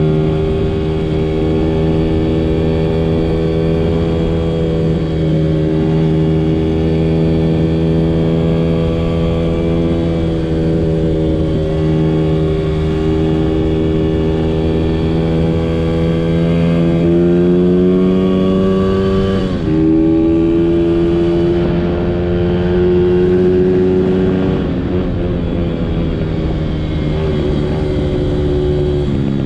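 Small Honda 50cc four-stroke single-cylinder dirt bike engine running under way at a fairly steady pitch, which rises for a couple of seconds about two-thirds of the way through, dips sharply as the throttle comes off, then picks up again.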